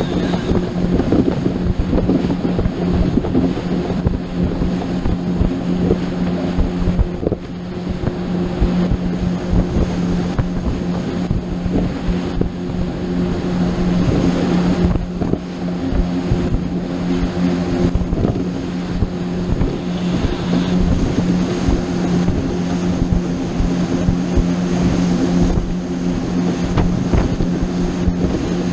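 Motorboat engine running steadily at cruising speed, a constant hum with wind buffeting the microphone and rushing water underneath.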